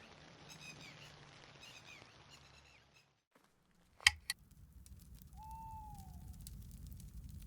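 Steady rain-like hiss with short high chirping calls, broken off for about a second. Then come two sharp clicks, and the hiss returns with a single falling hoot, like an owl's, near the middle.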